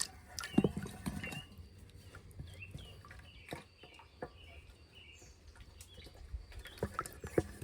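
Birds chirping, a run of short repeated calls, with a few scattered knocks, the loudest about half a second in and another near the end.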